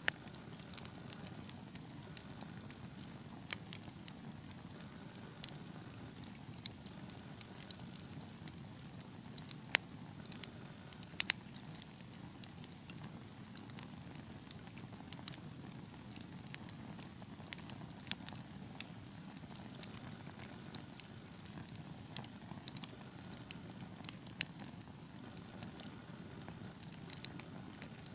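Wood fire crackling: irregular sharp pops and snaps, some louder than others, over a steady low rumble of burning flames.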